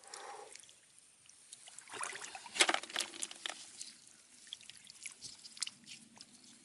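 Shallow water trickling and splashing, with scattered small clicks and knocks; the loudest comes about two and a half seconds in.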